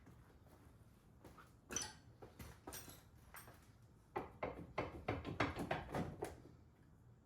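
Hand tools and metal parts being handled: scattered clanks and knocks, then a quicker run of knocks, several a second, from about four seconds in for about two seconds.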